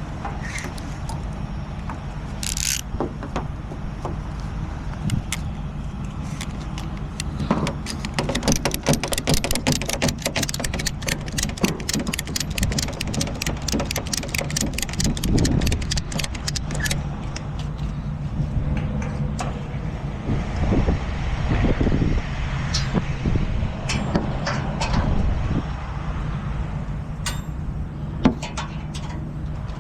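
A heavy truck engine idling steadily, with a run of rapid metallic clicking about a third of the way in that lasts around ten seconds, then scattered knocks.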